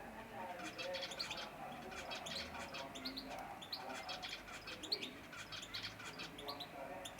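Domestic canaries chirping, a steady stream of short, quick, high chirps.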